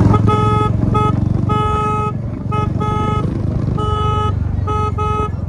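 A vehicle horn honking in a rapid, uneven series of about eight or nine short and longer blasts, each one steady in pitch, over the low rumble of a motorcycle engine and road noise.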